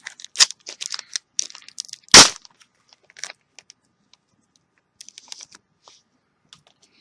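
Crinkling and clicking of a trading card booster pack's wrapper being handled and worked open, with one loud sharp knock about two seconds in, then a few faint clicks.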